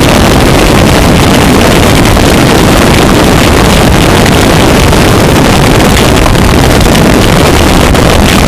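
Harsh noise music: a loud, unbroken wall of heavily distorted noise spread across all pitches, with no separate hammer strikes.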